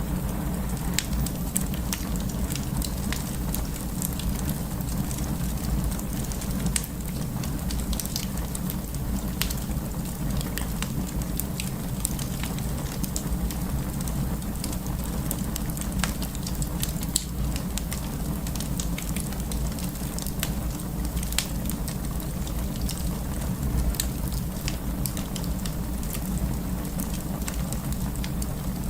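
Wood fire burning, crackling with many short, irregular pops over a steady low rumble.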